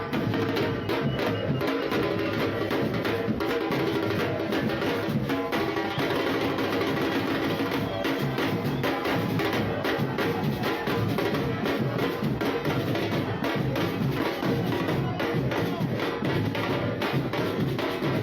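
Football supporters' drum band playing a fast, steady, unbroken rhythm on drums and other percussion.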